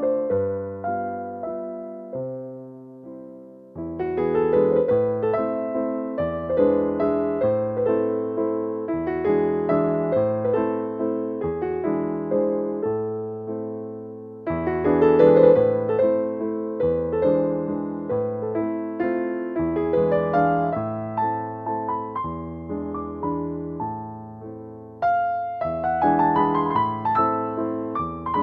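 Background music: a solo piano playing slow chords and arpeggios, each note struck and left to fade, in phrases of a few seconds.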